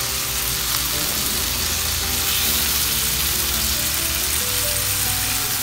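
Onion, garlic and carrots sautéing in hot oil in a pan, sizzling steadily, as tomato sauce goes in.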